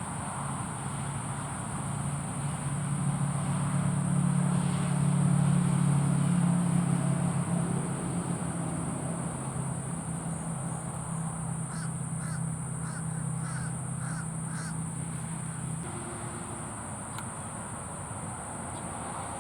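A bird gives a quick series of about seven short calls, two or so a second, in the second half. Under it runs a steady low hum that swells and then fades out near the end, and a steady high insect drone.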